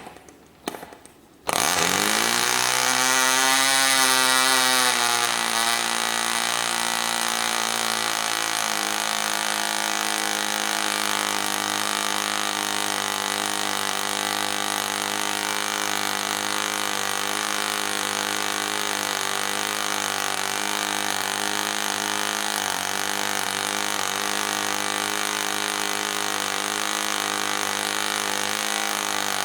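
ENYA 09 III two-stroke glow model engine, with a known compression leak, firing a couple of times and then catching about a second and a half in. Its pitch climbs for a couple of seconds, then it runs steadily with its propeller.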